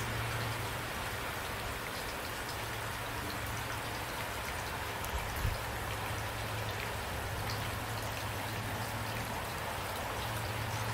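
Steady rain, an even hiss of falling raindrops, with a low hum underneath and a brief low thump about halfway through.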